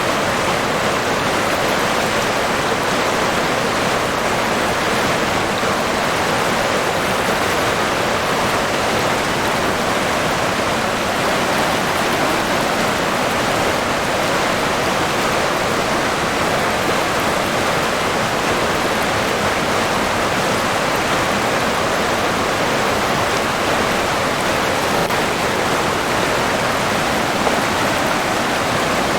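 River water rushing and burbling steadily, an even, unbroken rush.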